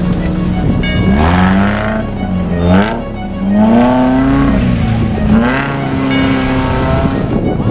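Off-road 4x4's engine revving hard in about three swells, the pitch climbing and then dropping each time, with background music underneath.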